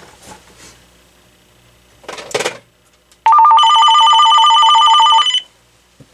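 AT&T 7720 cordless phone ringing on an incoming call: a loud electronic warbling trill, two tones flipping about ten times a second, with a steady high tone joining it, lasting about two seconds before it stops. A short rustle comes just before it.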